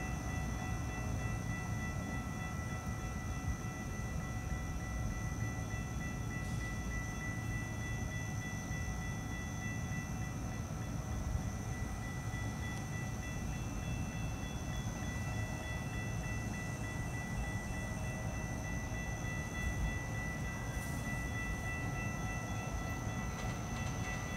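A distant approaching train: a low, steady rumble with faint, steady high-pitched tones over it.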